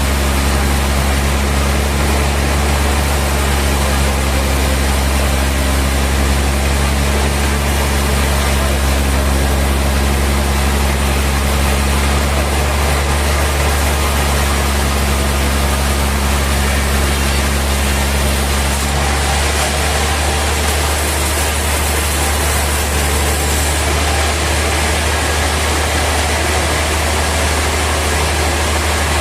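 Heavy sawmill machinery running steadily with a loud, low hum; its tone changes about two-thirds of the way through as some of the lower tones drop away.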